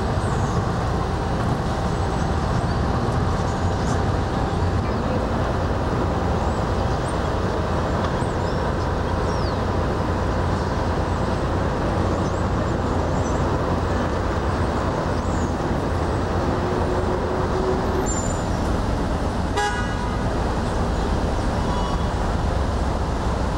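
Steady engine drone and road noise of a moving road vehicle, with one brief short toot about twenty seconds in.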